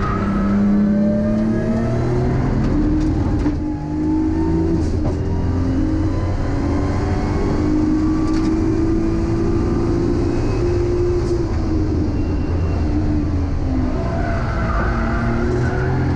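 Nissan Skyline R32 GTS-t's turbocharged RB20DET inline-six heard from inside the cabin, driven hard on a race track: revs climb, break briefly at an upshift about four seconds in, climb again for several seconds, fall away about eleven seconds in, then rise again near the end.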